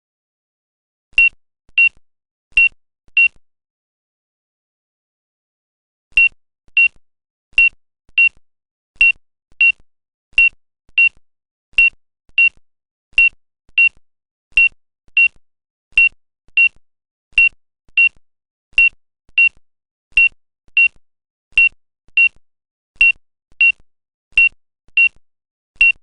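Short, high electronic beeps coming in pairs, about one pair every second and a half, with a pause of about three seconds after the second pair.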